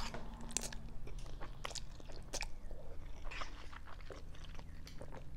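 Close-miked mouth sounds of a person eating instant cup noodles: a slurp of noodles at the start, then irregular wet smacks and clicks of chewing.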